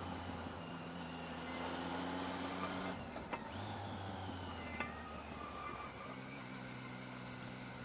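Triumph Tiger 800's three-cylinder engine running steadily while the bike is ridden through a hairpin, its note dropping about three seconds in and shifting again about six seconds in, with a couple of light clicks.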